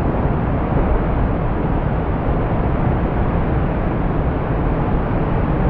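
Steady, loud rushing noise of surf and wind on the microphone, heaviest in the low end, with no separate crashes.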